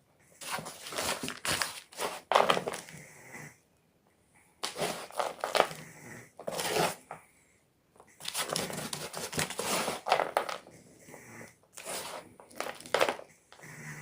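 A block of gym chalk being crushed, with crunching and crumbling in four runs separated by short pauses.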